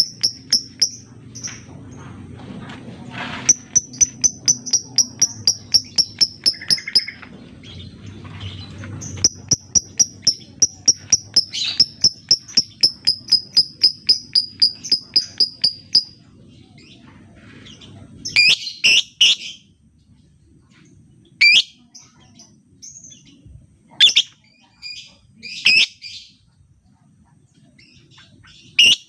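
Lovebird calling: long runs of rapid, evenly spaced sharp high chirps, about three or four a second, over a low background hum. From about two-thirds of the way through, these give way to a few separate, harsher screeching calls with pauses between them.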